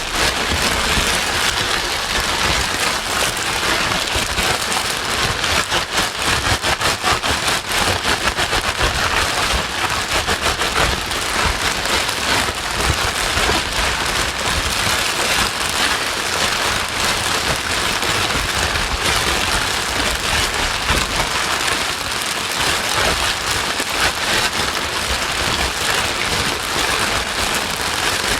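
Steady heavy rain falling on a hard surface: a dense, even hiss laced with fine pattering droplets, used as a continuous white-noise track.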